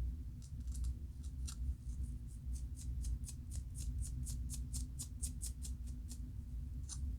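Dry, scratchy strokes of scalp scratching to loosen dandruff flakes from the roots of locs. A few separate strokes come first, then about a second and a half in a fast run of about five strokes a second, then one last stroke near the end. A steady low hum runs underneath.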